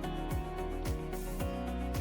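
Soft upbeat background music with a steady beat of about two drum hits a second and sustained chords.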